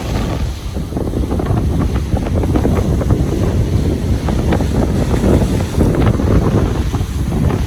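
Ocean waves washing onto a beach, with steady wind noise on the microphone.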